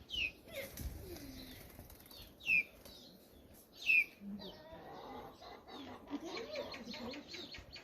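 Bird chirping: a few short, high chirps that fall in pitch, the loudest two about a second and a half apart, with fainter lower calls after them.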